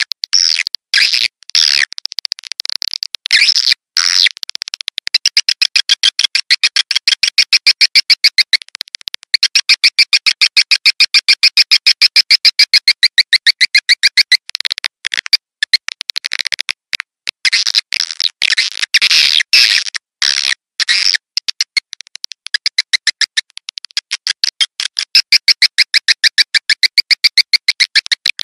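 Swiftlet lure call: a recorded swiftlet twittering played as a loop of rapid, evenly repeated chirps, several a second, in long trains with brief breaks. This is the 'suara tarik' sound used to draw swiftlets into a nesting house.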